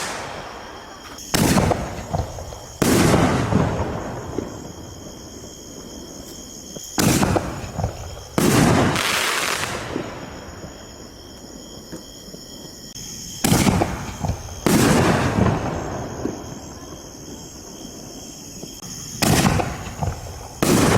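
7-inch aerial canister shells fired from mortar tubes, four in turn: each gives a sharp bang followed about a second and a half later by a louder boom that fades out slowly over several seconds.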